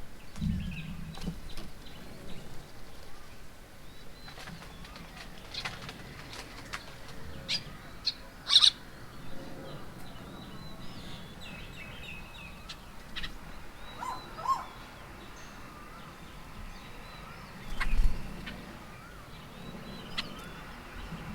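Birds at a feeding table: scattered short chirps and calls, with wing flaps and small knocks and taps. A sharp click stands out about midway, and a low thump comes near the end.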